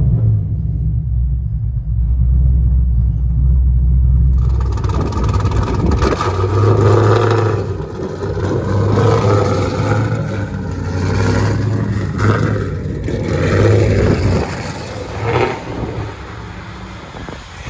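LSX-swapped Chevy Camaro SS V8 with long tube headers, high-flow cats, an X-pipe and straight pipes. It starts as a deep, muffled rumble, then about four seconds in turns much louder and rougher, rising and falling with the revs. It is very loud.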